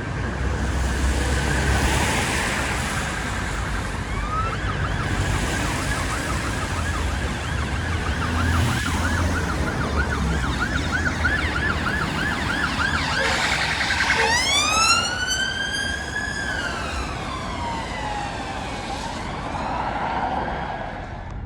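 Emergency vehicle siren passing in traffic: a fast yelp, about three warbles a second, switches about two-thirds of the way through to a slower wail that rises and then falls once. Vehicle engine and road noise run underneath.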